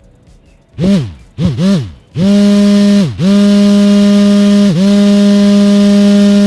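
Small electric motor switched on in three quick blips that spin up and die away. It then runs with a loud, steady hum, dipping briefly in speed twice as if momentarily loaded.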